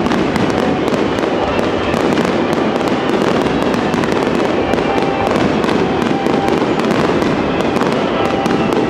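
Starmine fireworks finale: a continuous barrage of shells bursting, dense booms overlapping with constant sharp crackling and no pause.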